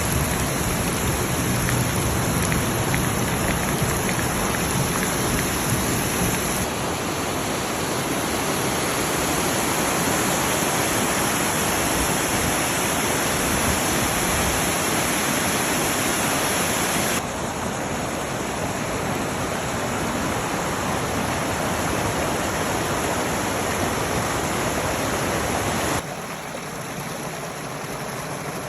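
Steady, dense rush of heavy rain and running floodwater. The sound changes abruptly in level and tone three times, about 7, 17 and 26 seconds in.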